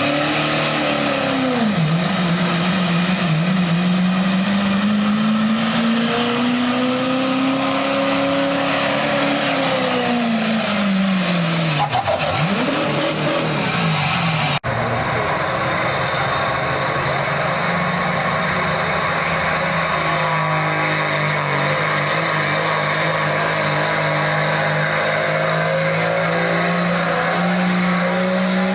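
A work stock pickup truck's engine under heavy load pulling a sled, its pitch climbing steadily for about nine seconds, then falling, with a high whistle riding above it. The revs drop away sharply about twelve seconds in. After an abrupt break, an engine runs more steadily.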